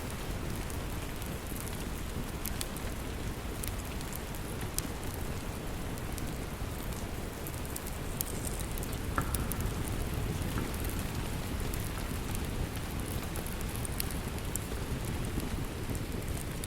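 Steady rain pattering, with scattered small sharp crackles and pops from a log fire in a fireplace.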